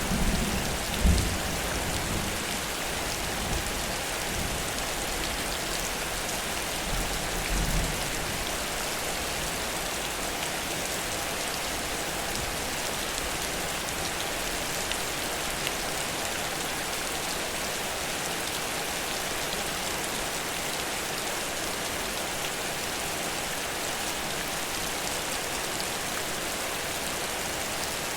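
Heavy rain falling steadily, an even hiss of a downpour. A few short low thumps come in the first several seconds, the loudest about a second in.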